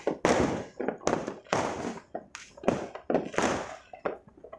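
Fireworks going off in a rapid, irregular string of sharp bangs, about a dozen in under five seconds, each dying away briefly.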